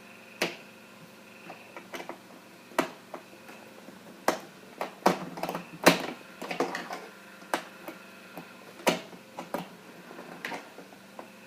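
Irregular sharp clicks and taps of a screwdriver working screws out of a plastic printer casing, with a busy stretch of clatter around the middle.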